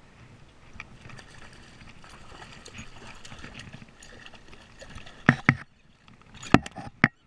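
Faint splashing and rustling around a kayak, then four sharp knocks on the hull: two in quick succession about five seconds in, and two more near the end.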